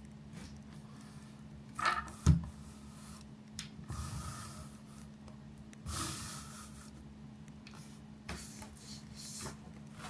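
Scattered knocks and short rustles of small objects and paper being handled on a desk, with one sharper knock a couple of seconds in, over a faint steady hum.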